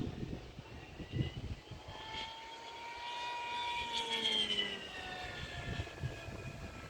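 RC model airplane's motor whining overhead, growing louder to a peak about four seconds in, then dropping in pitch and fading. Wind gusts buffet the microphone with low rumbles.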